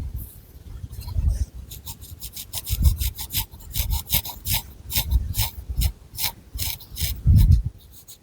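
Long fingernails scratching through thick long hair and over the scalp in quick repeated strokes, about three to four a second, with dull low thumps from the hand moving against the head.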